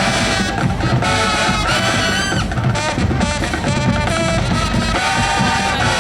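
Marching band playing loud brass over drums, with a swooping upward brass phrase about two seconds in.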